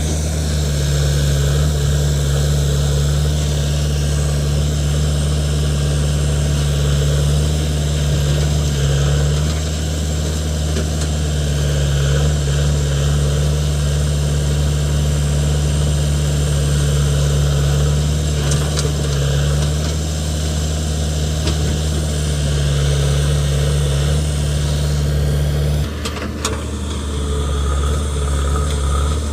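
Heavy diesel engines of a backhoe loader and dump truck running steadily at an even speed. About 26 seconds in, a short knock is followed by a brief dip and change in the engine note.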